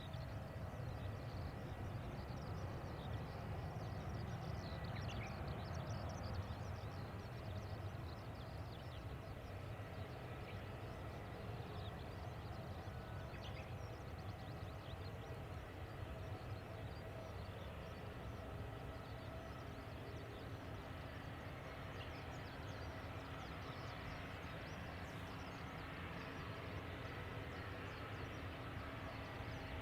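Boeing 737-800's CFM56-7B turbofan engines running at taxi power, a steady rumble with a faint held whine.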